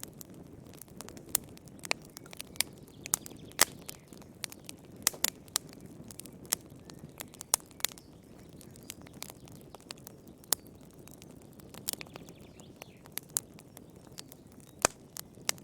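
Wood fire crackling in a fireplace: irregular sharp pops and snaps, one or two a second, over a low, steady rush of the burning logs.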